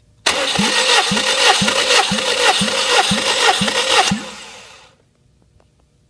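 Subaru EJ201 2.0-litre flat-four engine being cranked over by its starter motor for a compression test, with an even chug about twice a second. It cranks for nearly four seconds without firing, then the starter whirs down.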